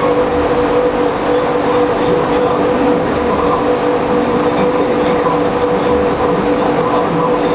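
Steady mechanical hum under a loud, even rushing noise, with two constant tones.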